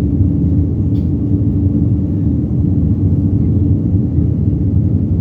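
Airliner cabin noise in flight: a steady low rumble with a constant hum running underneath.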